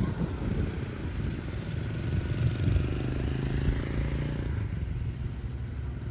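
A small engine running steadily and then fading away from about four and a half seconds in.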